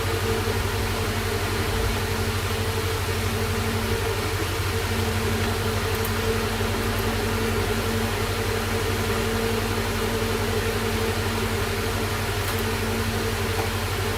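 Steady background hum with an even hiss, unchanging throughout, like a fan or other running appliance in the room.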